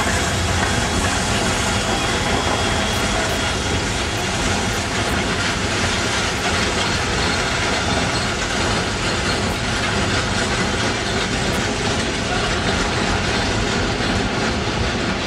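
A train of passenger carriages rolling past on the rails: a steady, loud running noise of wheels on track.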